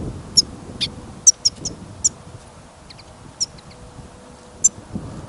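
European goldfinch singing in short, high, twittering notes, about a dozen sharp chirps scattered unevenly, over a low rumble of wind on the microphone.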